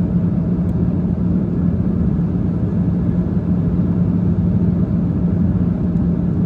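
Steady jet airliner cabin noise in flight: a constant low rumble of engines and airflow with a steady hum.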